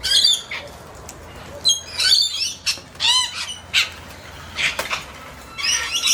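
Corellas calling at a backyard feeder: a string of short squawks, several in quick succession and some overlapping.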